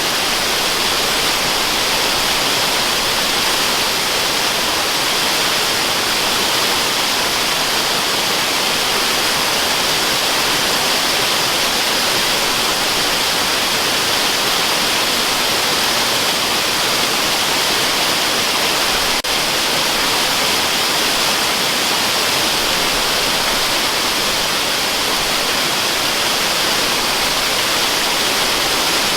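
Waterfall rushing in a steady, unbroken hiss of falling water, with one faint click about nineteen seconds in.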